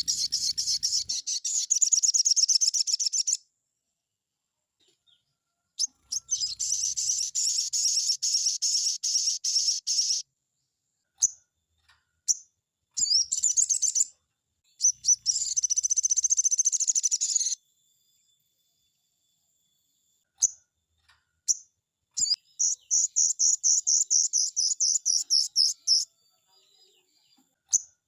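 Crimson sunbird (sogon) singing in rapid, high, rattling trills. The trills come in several bursts of a few seconds each, with single short chips in the pauses between them.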